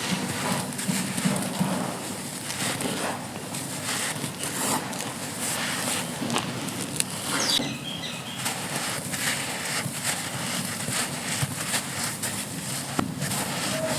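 Dry packed sand crumbling and crunching, a dense, steady run of small crisp crackles.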